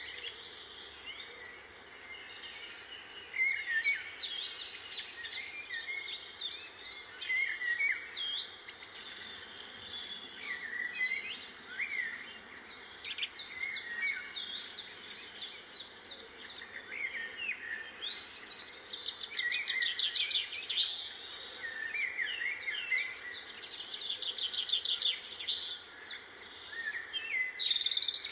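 Several birds chirping and calling: many short high chirps and falling whistles overlap with fast trills, busiest in the second half.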